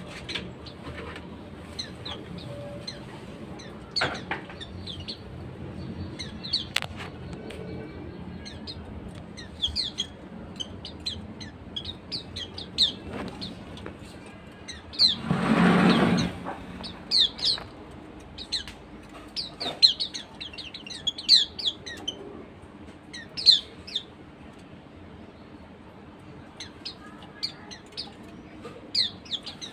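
Pleci white-eyes calling with many short, high chirps throughout, with a brief burst of wing flapping about halfway through.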